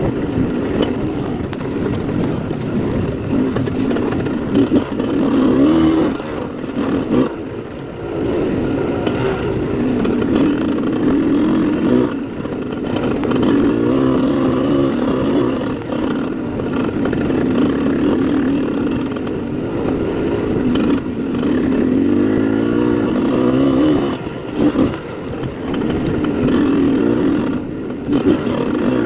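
Dirt bike engine running while being ridden, its pitch rising and falling with the throttle, with brief drops in level every few seconds.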